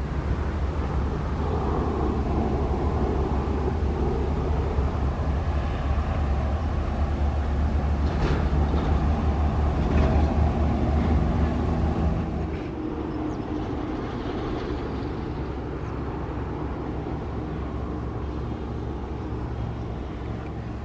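DEMU (diesel-electric multiple unit) passenger train approaching head-on, its diesel engine running with a steady low rumble. The rumble drops somewhat about twelve seconds in, then holds steady.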